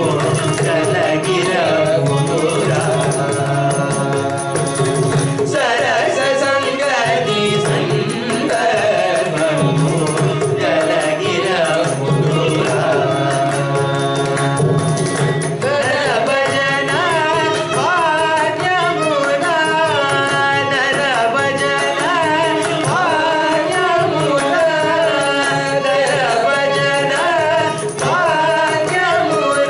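Carnatic classical music: a vocalist singing a richly ornamented melody with violin support and mridangam drum accompaniment.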